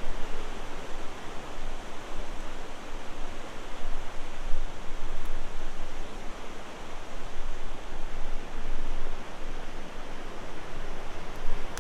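Steady rushing of river water, an even wash of noise with a little low rumble and no pauses.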